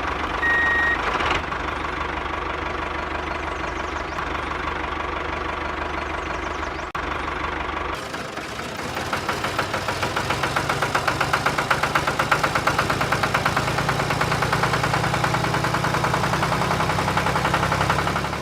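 Tractor engine running, with a reversing beeper that stops about a second in. About 8 seconds in the sound changes abruptly to a faster, louder chugging that holds steady.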